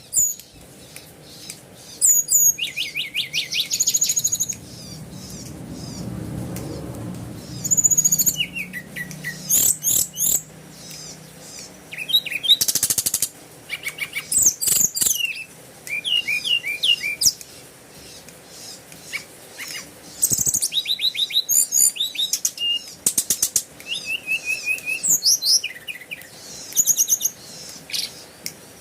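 Small birds chirping and singing in quick high trills and chirps that come in short bursts every second or two; a low rumble swells and fades around six seconds in.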